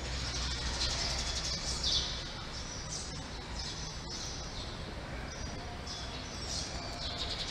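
Small birds chirping in short repeated bursts, high-pitched, over a steady low hum.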